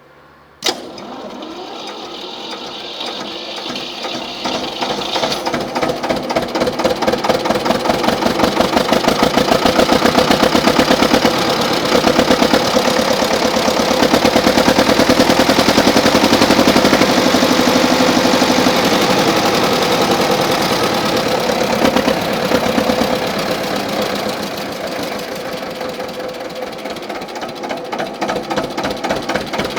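Engine of a 1953 Güldner tractor starting with a sharp bang about half a second in, then running with a rapid, even knocking beat. It grows louder over the first ten seconds or so, holds there, and eases back toward idle in the last several seconds.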